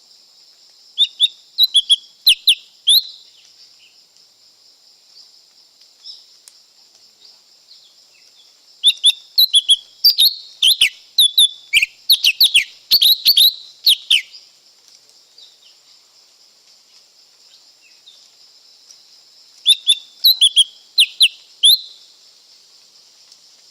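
Lesser green leafbird singing in three bursts of quick, sharp whistled notes: one of about two seconds near the start, a longer run of about five seconds in the middle, and a short burst near the end. A steady high-pitched hiss runs underneath.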